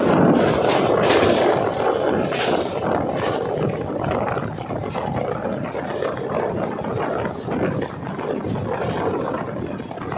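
Running noise of an express train at speed, heard at an open coach door: wheels on the rails and rushing wind, with a few louder surges in the first three seconds.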